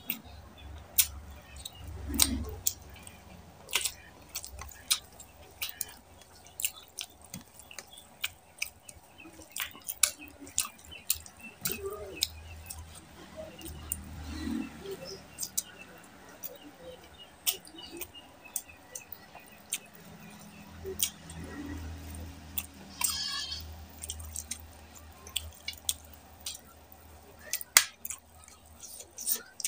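Close-miked eating sounds of a man chewing mouthfuls of mutton curry and rice eaten by hand, with frequent short, sharp mouth clicks and smacks.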